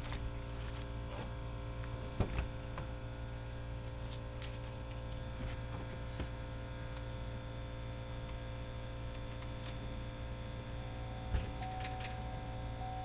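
Chevrolet Camaro engine idling steadily after a cold start, a constant low drone, with an air compressor running in the background. A few light metallic clinks sound over it, a little over two seconds in and again near the end.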